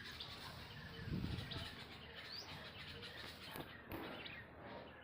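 Birds chirping faintly over steady outdoor background noise, with a short low rumble about a second in.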